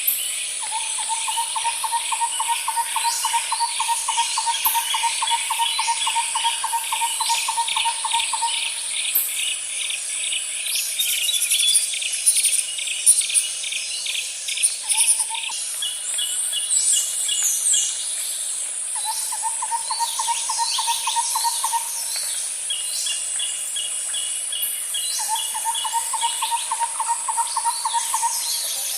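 Layered nature ambience of insects and birds. A steady high insect drone runs under fast pulsing insect trills and short descending bird chirps. A lower, even trill comes in repeated bouts: one long one of about eight seconds near the start, then a brief one and two of a few seconds each.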